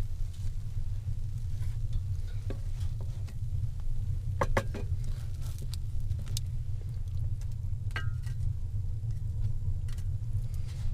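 Potato pancakes frying in a pan, with scattered short pops and clicks over a steady low rumble.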